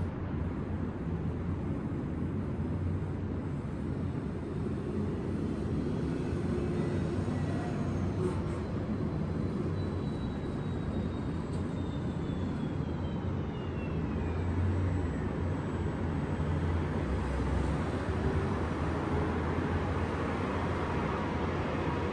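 Steady low rumble of city traffic, with an aircraft passing overhead: its whine falls in pitch around the middle and the rumble swells a little after it.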